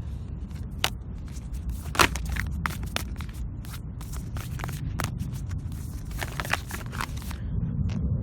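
A deck of tarot or oracle cards being shuffled and handled: irregular quick clicks and snaps of the cards, one louder snap about two seconds in, over a low steady rumble.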